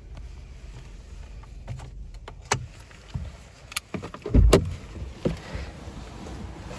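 Clicks and knocks from a car's cabin fittings, with one heavy thump about four and a half seconds in, over a low steady hum.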